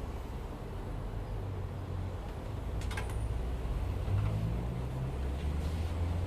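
Steady low mechanical hum that grows a little stronger about four seconds in, with a single sharp click about three seconds in.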